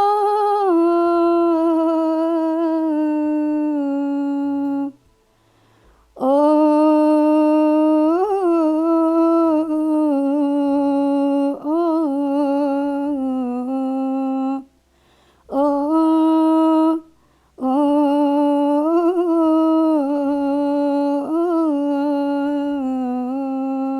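A woman humming a slow, wordless melody in four phrases with short breaths between, sliding and ornamenting held notes: a vocal demonstration of modulating from maqam Saba to maqam Sikah.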